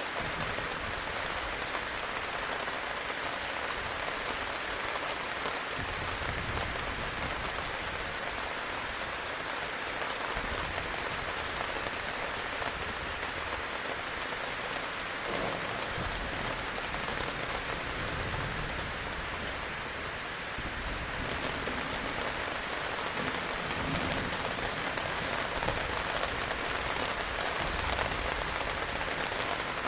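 Heavy rain falling steadily, an even hiss of drops with low rumbles coming and going underneath.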